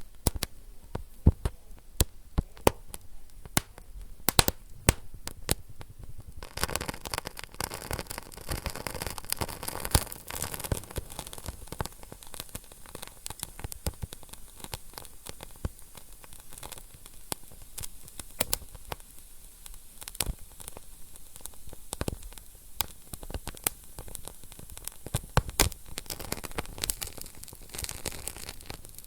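Wood fire burning in a fireplace, crackling with frequent sharp pops and snaps over a steady hiss that grows denser for a few seconds early on.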